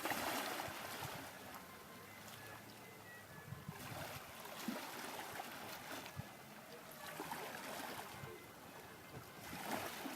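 Small waves washing in at the sea's edge, the wash swelling and easing in surges a few seconds apart.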